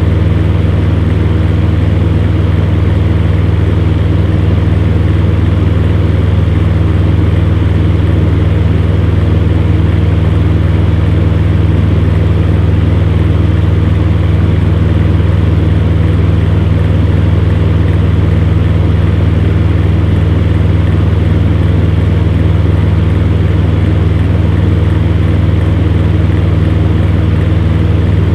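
Electric fan heater running steadily: a deep, even motor hum under a constant rush of blown air, with no change in speed.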